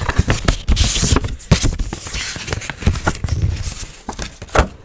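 Close-mic handling of a paper birthday card: crackling, scraping and tapping sounds with low thumps, and a short rustle about a second in.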